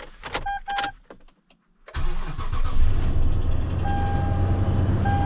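Pickup truck starting: a few clicks and a warning chime, then about two seconds in the engine cranks, catches and settles into a steady idle. The chime sounds again twice over the idle.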